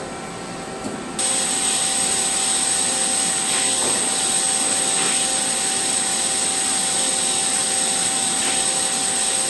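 CNC machine running: a steady hiss with a high, steady whine, getting louder about a second in.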